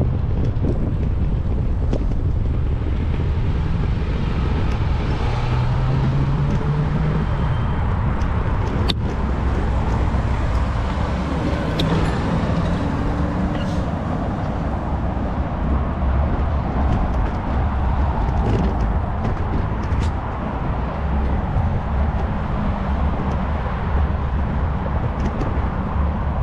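Road traffic from passing cars, heard from a moving bicycle: a steady low rumble with scattered clicks and knocks.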